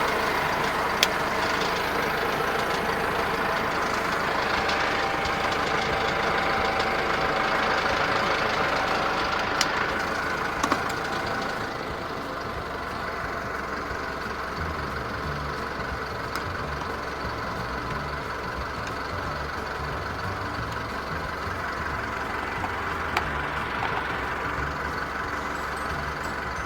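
Truck engine idling steadily just after being jump-started from flat batteries; it runs a little louder for about the first twelve seconds, then settles to a slightly lower, steady idle.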